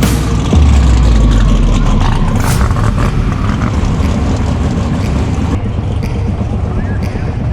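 Loud race car engine noise with a heavy low rumble, strongest in the first couple of seconds and then slowly easing off.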